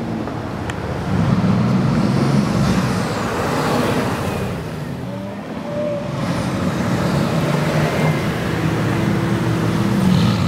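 Bugatti Veyron's quad-turbocharged 8.0-litre W16 engine pulling away on a street, loud for the first few seconds, easing off about halfway, then building again toward the end.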